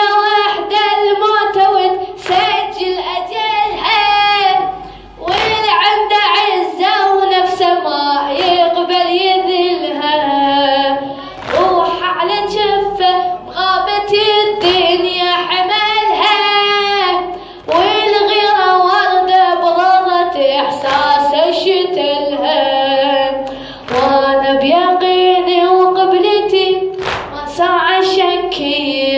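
A solo voice chanting a Shia latmiyya elegy in Arabic, with long held, ornamented notes and short breaks between phrases, over regular sharp beats.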